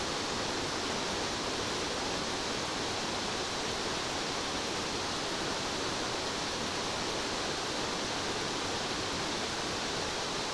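Steady rushing of water from a nearby stream or waterfall: an even, unbroken hiss with no pitch to it.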